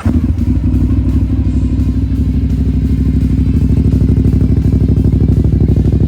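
Aprilia Dorsoduro 900's 896 cc V-twin, through aftermarket Dominator exhausts, catching right at the start and then idling steadily with a loud, even low pulse.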